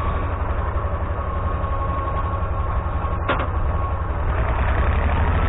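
International Harvester UD-236 diesel engine of a Galion 503 road grader running steadily, with a steady whine above the low engine rumble and a single click about three seconds in. The engine is cold-blooded after sitting for five months.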